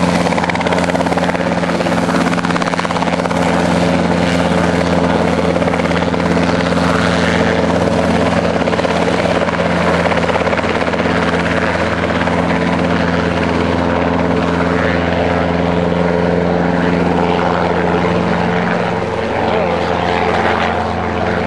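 Robinson R22 Beta II helicopter running loud and steady close by, its two-blade rotor and four-cylinder piston engine giving a constant low hum with steady tones. It eases off slightly near the end.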